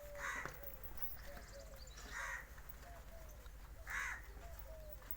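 Crow cawing three times, about two seconds apart, with fainter short chirps between the caws.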